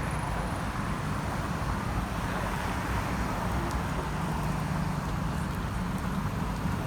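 City street traffic going by steadily, with wind rumbling on the microphone.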